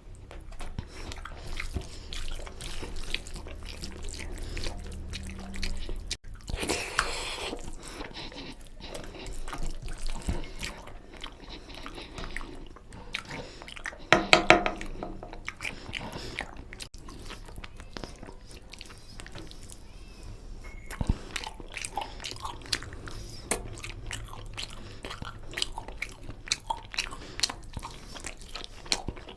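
Close-up eating sounds of mutton curry with rice: wet chewing, lip smacks and bites as many short clicks, with a louder wet burst about halfway through.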